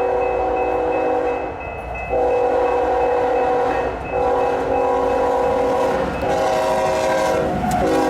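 Union Pacific freight locomotive air horn sounding a chord in a series of long blasts with short breaks between them. Its pitch starts to drop at the very end as the locomotive goes by.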